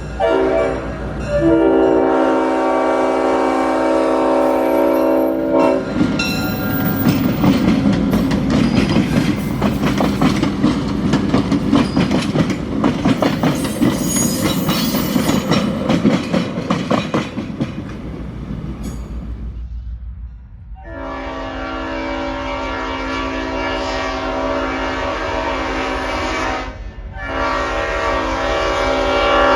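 A Leslie RS5T five-chime air horn on an EMD GP38-3 locomotive sounds one blast of several seconds. The train then passes close by with dense wheel clatter over the rail joints. Near the end the horn sounds a long blast, breaks briefly, and starts again.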